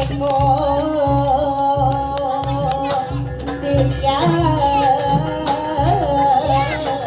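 Live jaranan music: a steady low drum beat about twice a second under a held, wavering melody line.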